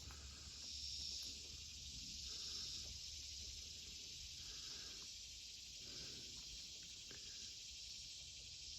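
Faint, steady insect chorus, a continuous high-pitched hiss, with a few soft rustles scattered through it.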